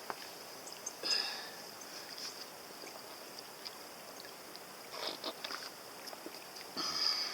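Insects chirring steadily at a high pitch, with two short pitched calls, about a second in and near the end, and a few crunching sounds around five seconds in.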